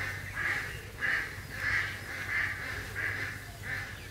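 A bird calling over and over with harsh, even calls, about seven in all at roughly one every 0.6 seconds, over a low steady hum.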